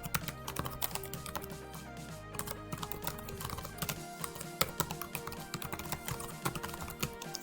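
Computer keyboard typing: quick, irregular key clicks, over steady background music.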